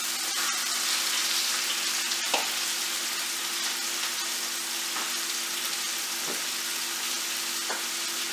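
Bite-size chicken breast pieces sizzling in hot oil with onion and garlic in a frying pan, a steady hiss with one sharp tap about two seconds in.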